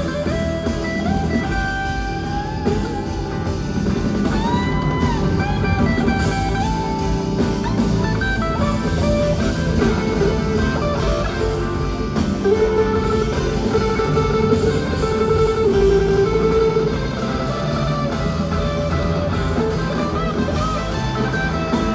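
Blues band playing an instrumental passage: a lead electric guitar solos with sliding, bending notes over bass and drums.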